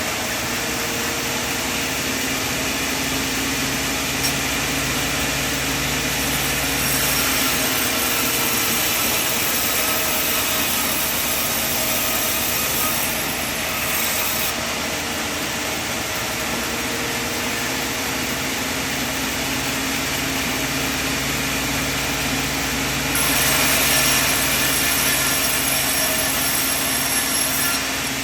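Sawmill machine running steadily, with a continuous motor hum. It gets louder and brighter during two stretches, about a quarter of the way in and again near the end, typical of the saw working through the wood.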